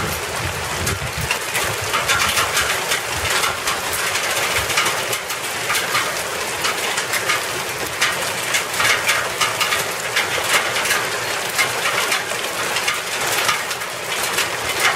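Hailstones falling and striking surfaces: a dense, steady patter of many small impacts.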